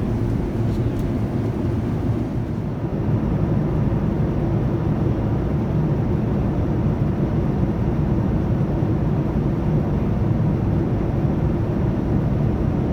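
Steady cabin noise of a Boeing 787-9 in cruise: an even, low rumble of engines and airflow through the fuselage. The fainter upper hiss thins out a couple of seconds in.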